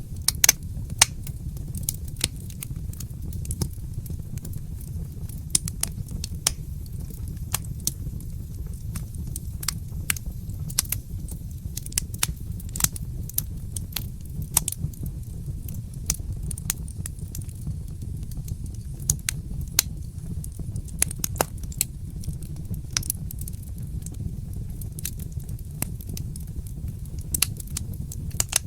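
Fireplace fire crackling: frequent sharp pops and snaps at irregular intervals over a steady low rumble.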